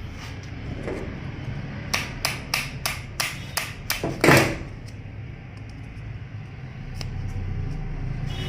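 A quick run of about eight sharp knocks over two seconds, ending in one heavier, longer thud, over a low steady hum.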